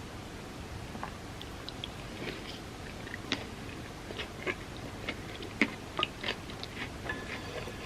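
Close-up chewing of soft chocolate truffles soaked in warm almond milk: scattered short mouth clicks and smacks, coming more often in the second half.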